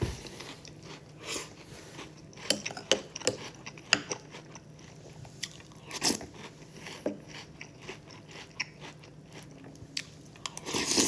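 Close-up eating of Cheerios: irregular crunching and chewing of dry cereal, with sharp bites now and then and louder crunches near the end.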